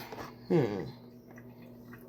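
A short voiced sound, falling in pitch, about half a second in. It is followed by a few faint light clicks over a steady low hum.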